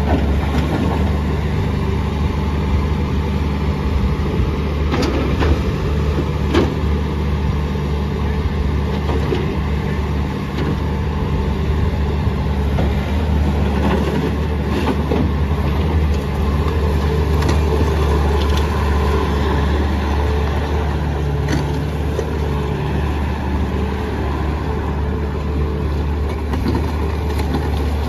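A Bobcat T590 tracked skid steer loader's 74 hp Doosan diesel engine running steadily, with a few short, sharp knocks along the way.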